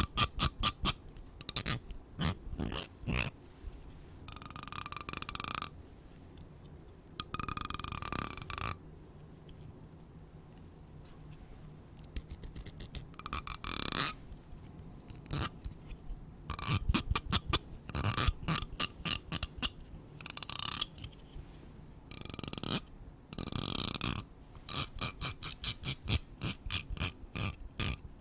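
Close-up scratching and brushing strokes with runs of quick, sharp clicks, over a steady high chirring of crickets. Brushing strokes come about four and eight seconds in and again near the end, and the clicks stop for a few seconds in the middle, leaving only the crickets.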